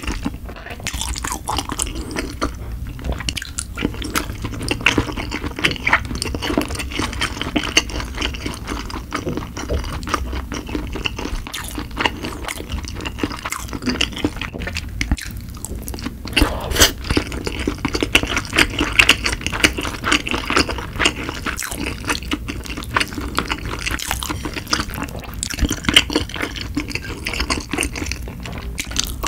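Close-miked chewing and wet mouth sounds of a person eating sushi, with short sharp clicks here and there.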